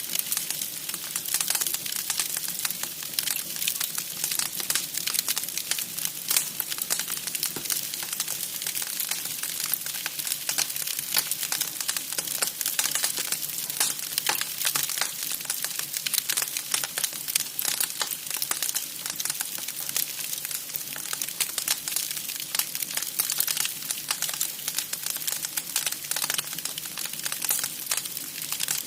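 Wood fire burning, crackling steadily with a dense stream of sharp snaps and pops over a hiss.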